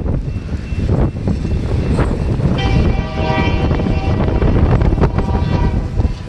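Union Pacific freight locomotive's air horn sounding a long blast and then a shorter one about a second later. Heavy low rumble from the passing train and gusting wind on the microphone runs underneath.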